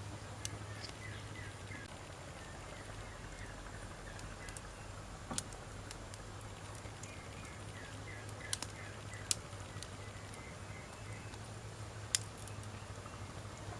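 Wood fire crackling, with scattered sharp pops and snaps, the loudest about twelve seconds in, over a steady low hum.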